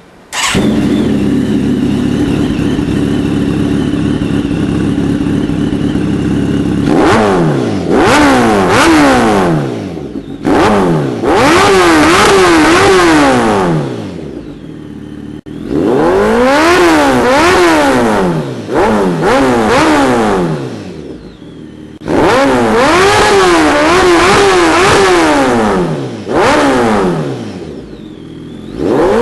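Kawasaki ZX-10R inline-four engine through an aftermarket MotoGP-style exhaust, starting up and idling for about seven seconds. It is then revved in quick repeated blips, the pitch rising and falling, dropping back to idle between runs.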